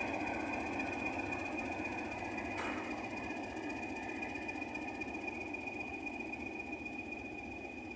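English Electric Class 20 diesel locomotive's engine running, with a steady high whistle over the engine sound, slowly fading. A single short click about two and a half seconds in.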